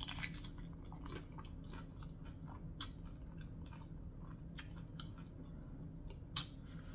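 Close-miked mouth sounds of a person biting and chewing food: scattered soft wet clicks and small crunches at an uneven pace.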